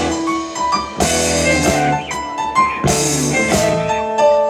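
Live band playing an instrumental passage of a rock-blues song: drum kit, guitar and keyboard, with two strong drum hits about one second and three seconds in.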